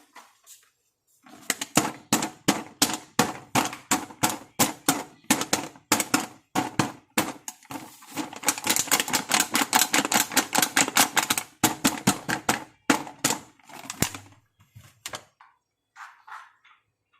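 Plastic pieces of a toy makeup set being handled, giving a rapid series of sharp clicks and taps, about three a second and densest around the middle, thinning out and stopping near the end.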